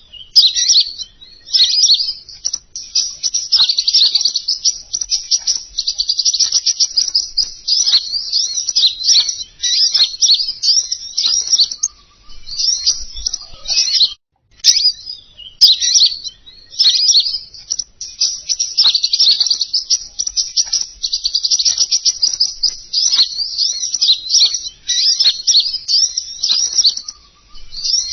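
Small songbird song played as a bird-lure recording: long bouts of rapid, high-pitched chirping and twittering, broken by short pauses a few times.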